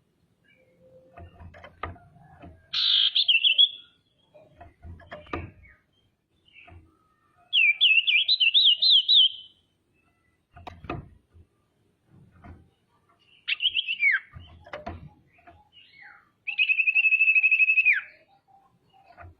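Female common iora calling, the kind of call used as a lure to provoke other ioras into singing. There are four phrases with pauses between them: a short trill, a rapid warbling run, a whistle that slurs downward, and a long steady trilled note of nearly two seconds that drops at the end. Faint low knocks come between the calls.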